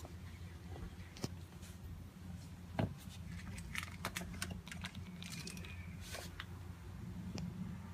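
Scattered light clicks and rustles from handling while a cat is petted, the loudest about three seconds in, over a low steady hum.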